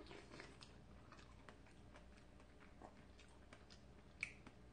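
Very faint chewing of a strawberry, with small irregular mouth clicks and one sharper click near the end.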